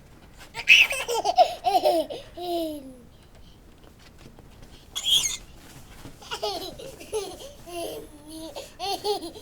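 Baby laughing and squealing in bursts of high-pitched giggles, about a second in and again from about six seconds, with a short breathy squeal around five seconds.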